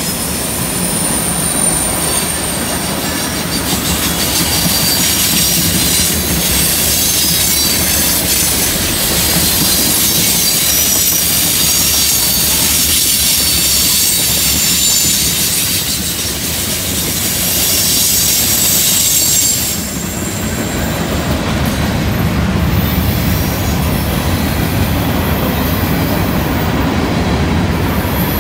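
Freight train of tank cars and gondolas rolling past on a curve: a steady rumble of steel wheels on rail, with high-pitched wheel squeal from the curve. The squealing tones shift higher about twenty seconds in.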